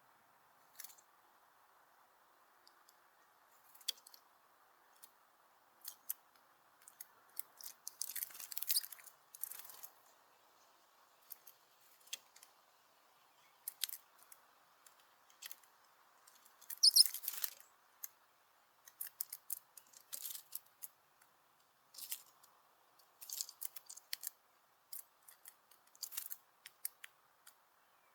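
Blue tit and great tit pecking and scrabbling at a peanut feeder: irregular sharp clicks and scratches, busiest about eight and seventeen seconds in, over a faint steady hiss.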